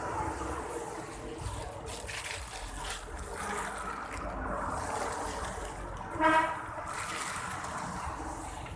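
Steady rain falling with water trickling and running off. A single short vehicle-horn honk sounds about six seconds in, louder than the rain.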